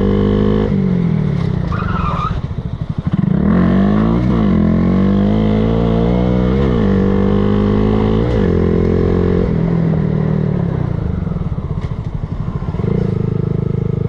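Motorcycle engine accelerating hard. The revs climb and drop sharply several times as the rider shifts through the gears.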